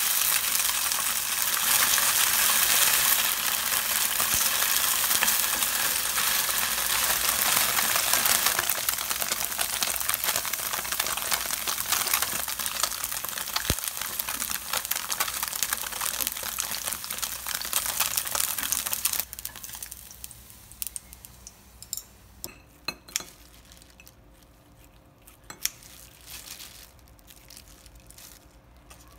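Tofu slices sizzling as they pan-fry golden in oil in a nonstick frying pan, with small knocks as they are turned. About two-thirds of the way in the sizzle cuts off suddenly, leaving only faint crinkling and light taps.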